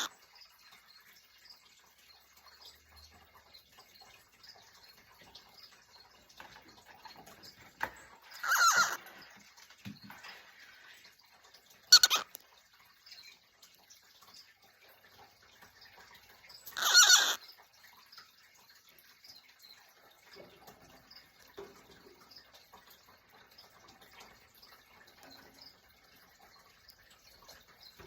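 Cockatiel calling three times: a call of about a second roughly 8 seconds in, a short sharp one at about 12 seconds, and another near 17 seconds, with faint small ticks and rustles between them.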